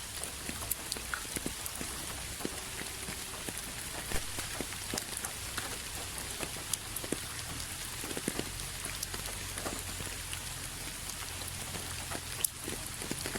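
Steady rain falling, with individual drops ticking and pattering on a surface over a constant hiss.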